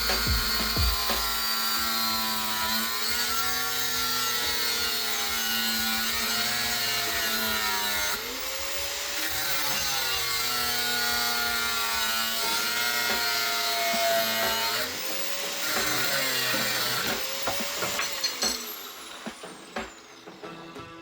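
Metal being sawn by hand in steady back-and-forth strokes, the blade giving a ringing tone that bends up and down with each stroke. It weakens and breaks off near the end.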